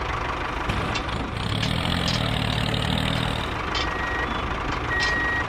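Vehicle engine running steadily, with a low drone that swells in the middle and two short high beeps near the end.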